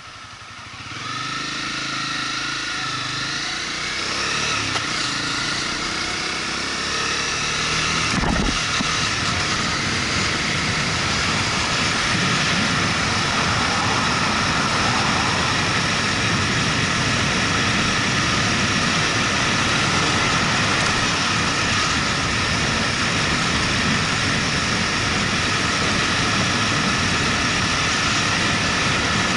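Motorcycle engine pulling away from low revs, its pitch rising over the first several seconds, then steady riding dominated by wind and road noise. There is a single knock about eight seconds in.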